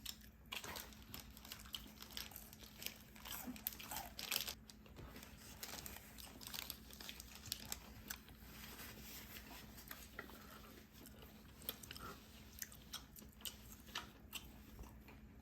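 A person chewing and biting food close to the microphone: faint, irregular crunchy clicks throughout, over a steady low hum.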